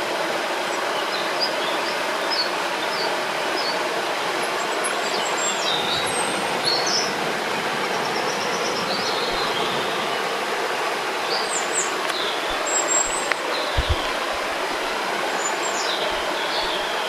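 Steady rushing of a river or stream, with birds chirping and whistling in short high phrases over it. A few soft low thumps come near the end.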